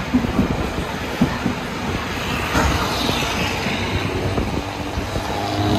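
Passenger train running along the track, heard from on board: a steady rolling noise with scattered irregular knocks from the wheels and carriage.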